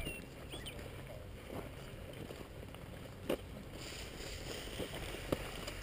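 Steady wind rumble on a helmet-mounted camera's microphone, with three short soft knocks spaced through it.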